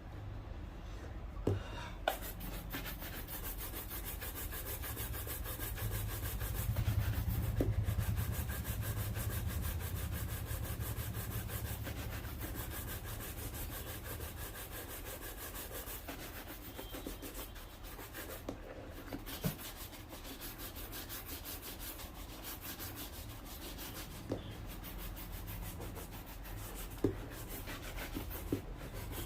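Fast, continuous rubbing strokes on a shoe, as when brushing or buffing it during polishing, with a few sharp clicks scattered through.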